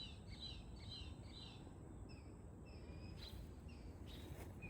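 Faint songbirds singing: a quick run of repeated downward-sliding chirps, then from about two seconds in a different pattern of short high notes alternating with lower ones, over a low outdoor background rumble.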